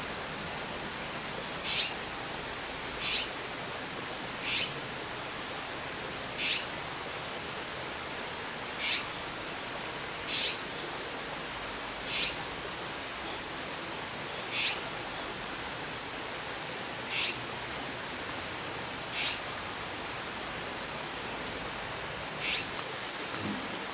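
Azure-winged magpie fledglings calling while waiting to be fed: about a dozen short, high calls, one every one to two and a half seconds, over a steady background hiss.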